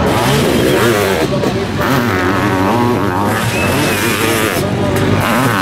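Sidecar motocross outfits' engines revving hard as two outfits come over a crest and pass one after the other. Several engine notes overlap, their pitch rising and falling with the throttle.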